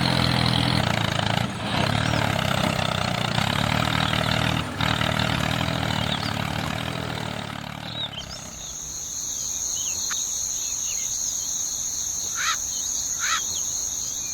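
A small motor running steadily with a low hum, stopping about eight seconds in. A quieter, steady high-pitched tone with short chirps over it follows.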